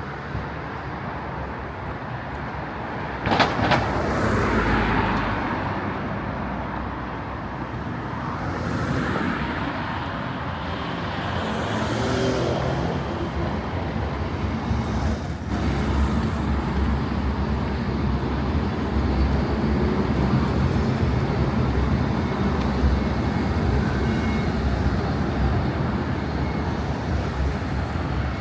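Street traffic passing on a city road: cars and heavier vehicles running by in a steady wash of engine and tyre noise. There is a sharp knock about three seconds in, and a brief high squeal about halfway through.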